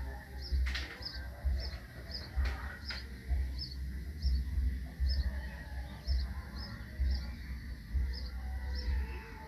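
A bird chirping over and over, short high chirps at about two a second in an even rhythm. Low rumbling bursts run underneath, and a few sharp clicks sound in the first three seconds.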